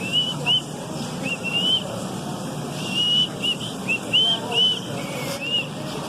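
A bird singing: a quick series of short, clear, arching whistled notes, repeated in little runs with brief gaps, over steady low background noise.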